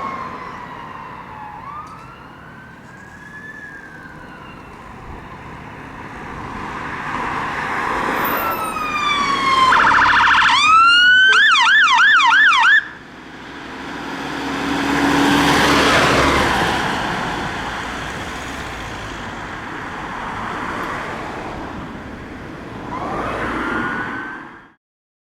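Scania fire engine's siren on a turnout: slow rising and falling wails, then a fast yelp that cuts off suddenly, followed by the appliance's engine and road noise swelling as it passes and fading away with a last faint wail.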